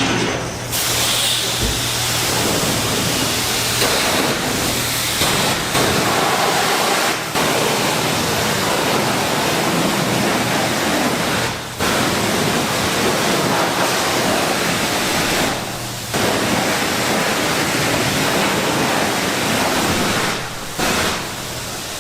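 Loud, steady rush of wind buffeting the microphone, as when riding at speed, with a few brief drops; any engine sound is buried under it.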